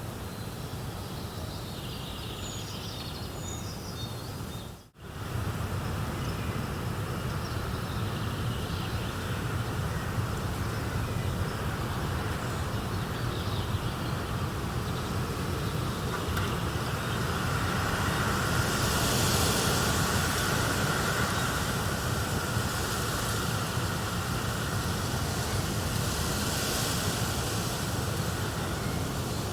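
Nature soundscape of steady rushing noise, with birds chirping in the first few seconds. The sound drops out briefly about five seconds in, then the steady noise carries on, a little louder and brighter past the middle.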